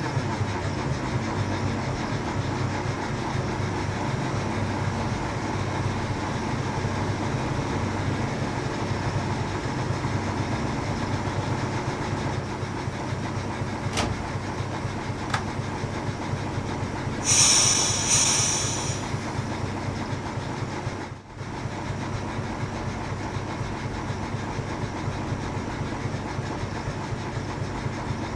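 Diesel locomotive engine running steadily during shunting, with two sharp clicks about halfway through and a brief high-pitched hiss a few seconds later.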